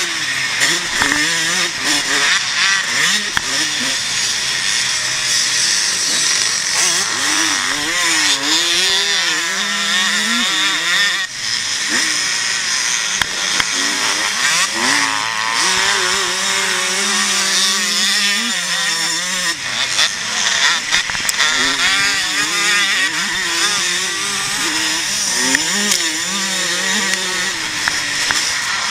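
Motocross bike engine, pre-1990 type, racing on a dirt track, heard from the bike-mounted camera: the revs climb and drop again and again as the rider works the throttle through the gears, with brief lifts off the throttle, over steady wind noise.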